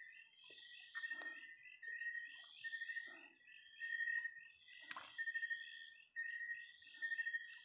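A chorus of night insects: a high, steady trill broken into repeated pulses. A few soft splashes and knocks come through as a hand grips a wriggling eel in shallow stream water.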